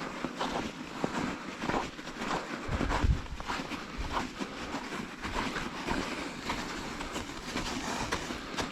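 Rhythmic crunching of crusted snow, about two crunches a second, from steps or bicycle tyres breaking through the frozen crust.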